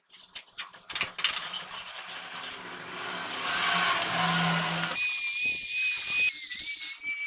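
Workshop tool work: scraping and tapping at first, then a power tool running, which gives a steady high whine for the last couple of seconds.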